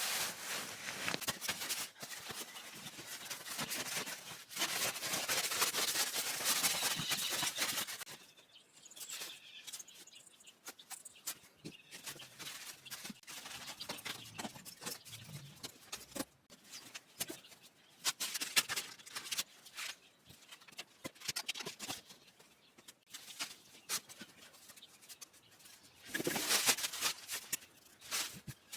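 Rustling and clattering of camping gear being handled and packed up, with scattered clicks and knocks. It is louder and busier at the start and again near the end.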